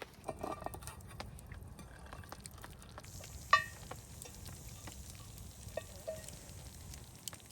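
Spoons or forks scraping and tapping in metal camp bowls during a meal, with one sharp ringing clink about three and a half seconds in, over a steady hiss.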